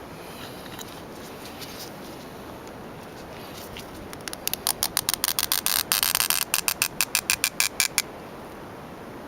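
A rapid run of sharp clicks, about five or six a second, over a steady low hiss; it starts about four seconds in, is densest around the middle, and stops about eight seconds in.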